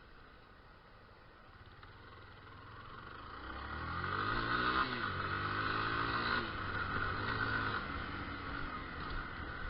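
Motorcycle engine accelerating hard, the revs climbing, dropping sharply twice as it shifts up through the gears, then settling to a steadier run.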